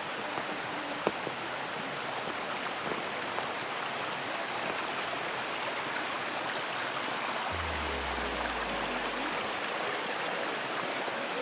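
Steady rushing of a woodland stream flowing over rocks. A single sharp click comes about a second in, and a brief low rumble about two-thirds of the way through.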